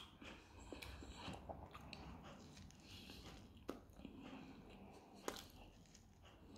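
A man chewing and biting into a pljeskavica in bread, faint wet mouth sounds with a few sharp smacks, the loudest a bit past halfway and again about three-quarters through.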